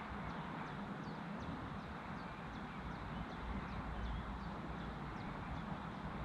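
Steady outdoor background noise with a bird repeating short, high, falling notes about twice a second. A low rumble swells briefly around the middle.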